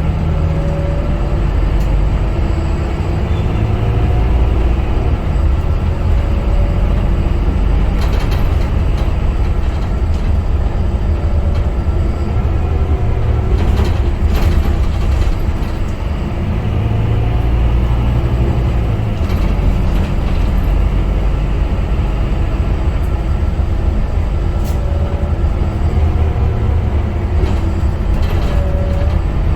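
Scania K250UB city bus's diesel engine running under way, its pitch rising and falling several times as it pulls and changes gear, with a few sharp rattles or knocks in between.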